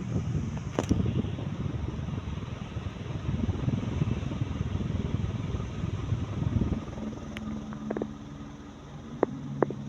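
Celestique/Alaska spotlight decorative ceiling fan running, with a low rumble for about seven seconds. It then drops to a steadier, quieter hum, and a few sharp clicks come near the end.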